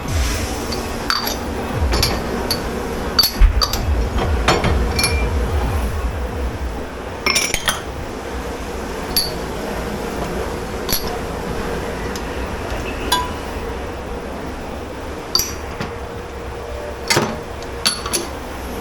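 Dishes and glassware clinking and knocking together as they are handled in a commercial kitchen dish pit, in irregular sharp clinks, over a steady background hum.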